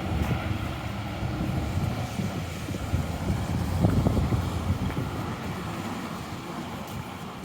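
Street traffic: a vehicle's engine rumbling past, loudest about four seconds in, with wind buffeting the microphone.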